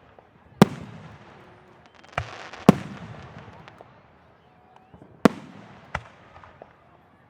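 Aerial fireworks shells bursting with sharp bangs, five in all, two of them close together about two seconds in, followed by a spell of crackling.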